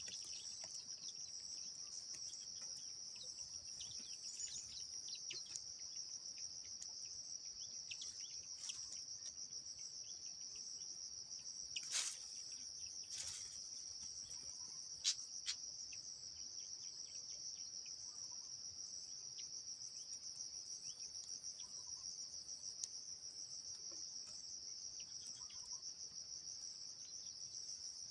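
Steady, high-pitched insect trill running without a break, with a few sharp clicks near the middle and faint short chirps.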